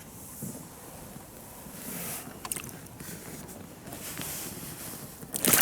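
Small boat sitting on the water with wind on the microphone and a few light knocks of gear, then a sudden loud knock and clatter near the end.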